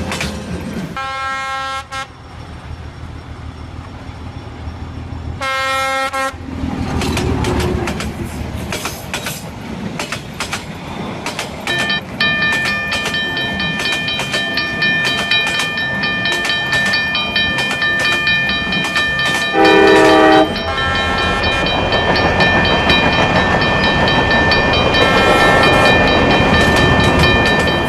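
Cartoon train sound effects: a train horn sounds twice in the first several seconds and again, loudest, about twenty seconds in, over rumbling and wheel clatter that grows louder toward the end. From about twelve seconds a railroad crossing warning bell rings steadily.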